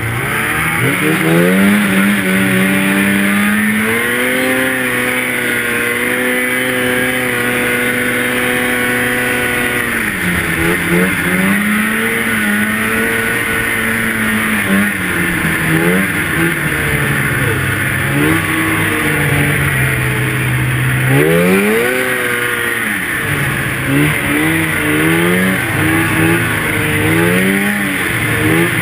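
Two-stroke snowmobile engine under throttle: it revs up about a second in and holds a high steady pitch, drops off about ten seconds in, then surges up and down repeatedly as the throttle is opened and closed.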